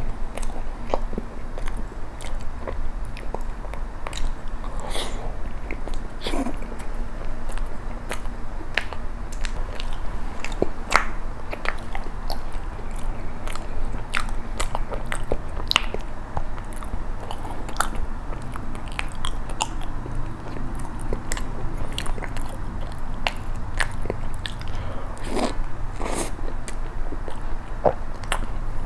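Close-up eating sounds: chewing soft matcha cream bread dunked in milk, with many wet clicks and smacks from the mouth.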